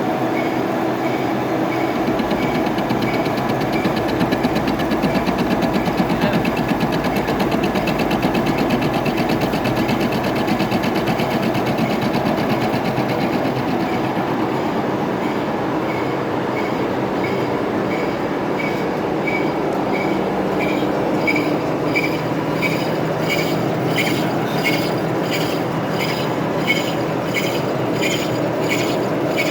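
Metal lathe running with a steady mechanical hum, and a regular ticking that becomes clearer in the second half.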